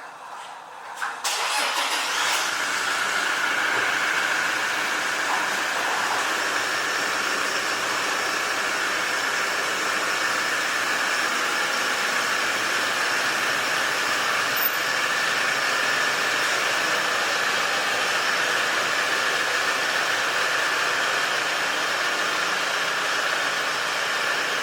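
An engine starts about a second in and then runs steadily.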